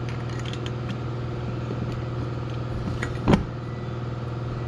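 An engine running steadily with an even hum. About three seconds in there is a single sharp metallic knock.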